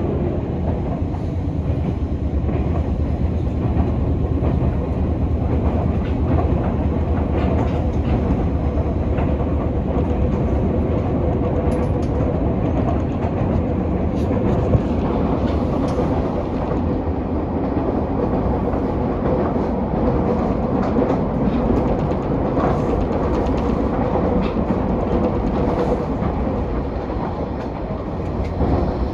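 Nankai Koya Line electric train running steadily, heard from inside a passenger car: a continuous rumble of wheels on rails with a steady hum and scattered faint clicks.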